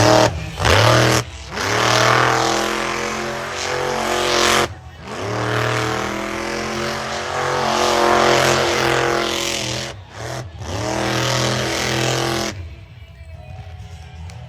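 Monster truck's supercharged V8 engine revving hard in repeated surges, the pitch climbing with each and cutting off sharply when the throttle is lifted, several times over. It drops off about twelve and a half seconds in.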